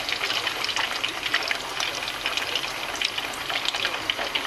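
Triangles of tofu frying in hot oil in a wok: a steady sizzle made of many fine, fast crackles and pops.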